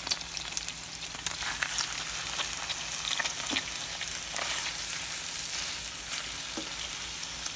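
Chicken breasts frying in melted butter in a pan: a steady sizzling hiss with scattered small crackles.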